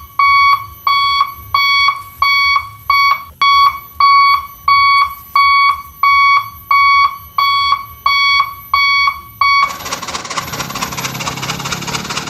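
Truck's reversing alarm beeping evenly, about two beeps a second; the beeping stops near the end and engine noise takes over.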